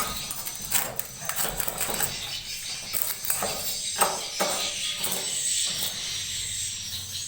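Edible-nest swiftlets chittering and clicking high-pitched in the swiftlet house, with a few sharp clicks or knocks scattered through.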